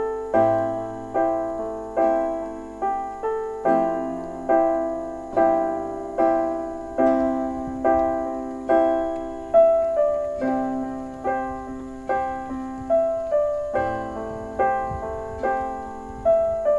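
Gentle background piano music: single notes struck at a slow, even pace, each ringing and fading before the next.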